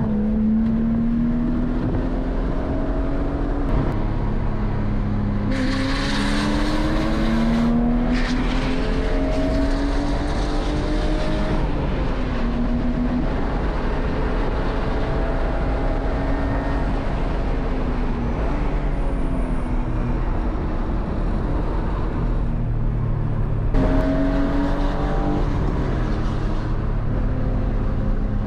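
BMW E36 M3's inline-six engine heard from inside the cabin at track pace, its pitch climbing again and again as it pulls through the revs and dropping at each gear change. Several spells of loud rushing noise come and go over the engine.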